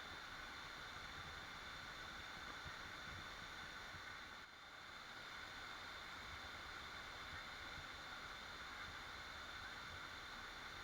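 Steady, fairly faint waterfall noise with no birds or other events, dipping briefly once about four and a half seconds in.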